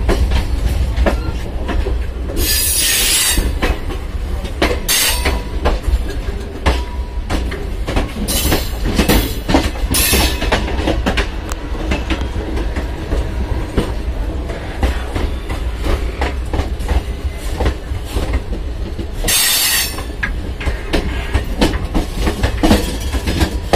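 Indian Railways ICF passenger coaches running at speed, heard from the gap over the screw coupling: a steady low rumble of wheels on rail with frequent clicks and clanks. A few short bursts of high hiss come through, about three seconds in, around five, around nine and near twenty seconds.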